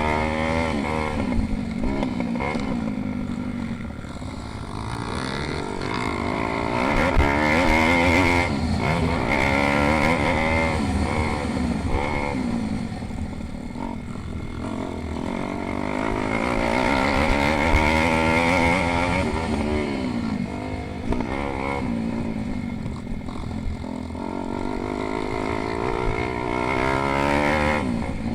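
Several pit bikes racing, their small single-cylinder engines revving up and down through gear changes. The sound swells three times, at roughly ten-second intervals, as the bikes come past.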